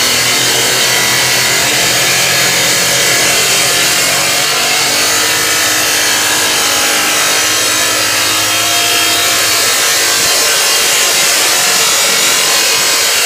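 Power saw running continuously as it cuts into the back of a built-in Sub-Zero refrigerator, loud and unbroken, its motor pitch drifting slightly under load.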